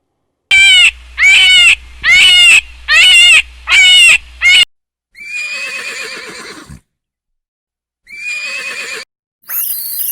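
Animal calls: a run of five loud, evenly spaced cries that each rise and fall in pitch, followed by two quieter, longer calls.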